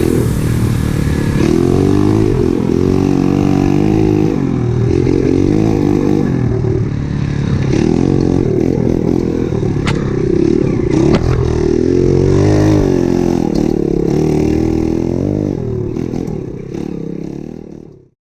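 Loncin 125 cc single-cylinder four-stroke pit bike engine revving up and down repeatedly as the bike is ridden, with knocks and rattles over it. It fades out near the end.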